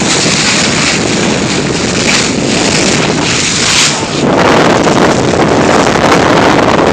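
Wind buffeting the microphone on a moving boat, over the rush of the water past the hull; it grows louder about four seconds in.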